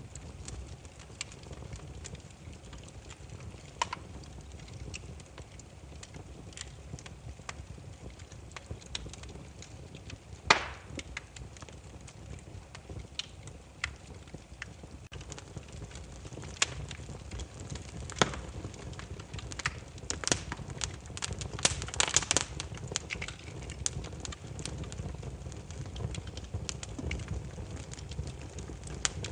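Wood campfire burning, with irregular sharp crackles and pops of the firewood over a low steady rumble of the flames. The pops come thicker about twenty seconds in.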